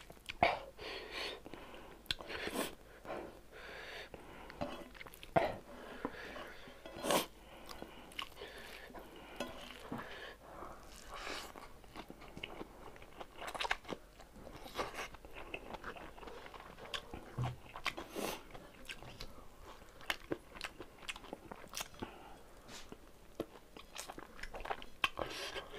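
A person chewing mouthfuls of rice eaten by hand, close to the microphone: irregular wet mouth clicks with a few louder sharp ones.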